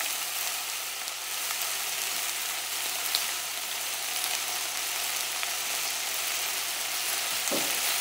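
Chicken breast and quince pieces sizzling steadily as they sauté in a steel pot, with one faint click about three seconds in.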